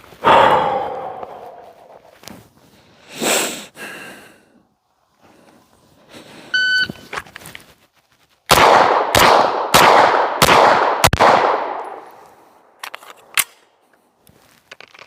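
A shot timer beeps once, and about two seconds later a Walther PDP pistol fires a string of five shots, roughly one every two-thirds of a second, each shot ringing on after it. Earlier there are two other loud noises, one right at the start.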